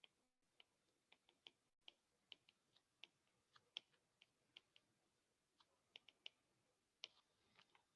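Near silence broken by faint, short clicks and taps at irregular intervals, about fifteen in all, the sound of writing on a board.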